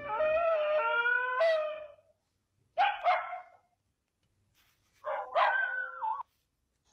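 A dog whimpering: a long high whine of about two seconds, a short cry about three seconds in, then another whine that cuts off suddenly near the end.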